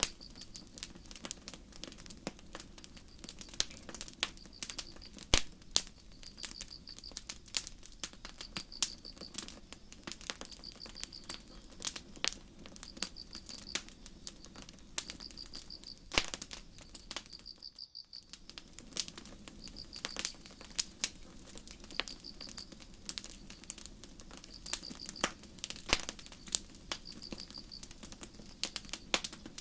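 Campfire crackling with frequent sharp pops, while crickets chirp in short trills about every second and a half. Both drop out briefly about two-thirds of the way through.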